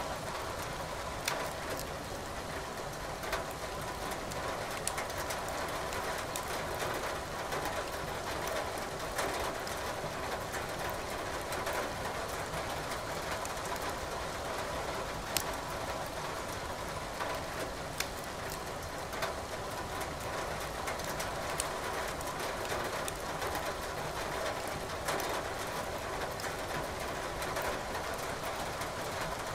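Firewood burning in a fireplace, crackling with sharp, irregular pops, over a steady hiss of rain. One pop about halfway through is louder than the rest.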